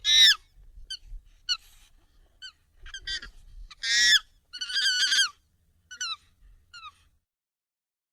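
Monkey calls sped up and raised in pitch: a string of short, high, downward-sliding squeaks and chirps, with a few longer, louder honking calls among them.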